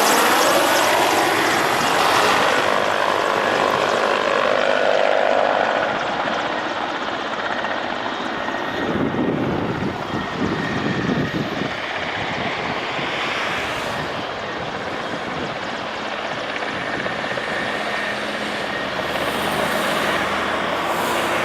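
Helicopters flying past, a steady rotor and turbine noise that is loudest over the first six seconds, eases off, then grows again near the end.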